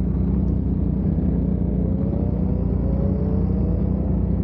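Yamaha MT-series motorcycle engine running steadily with a deep rumble, with a faint tone slowly rising in pitch over it.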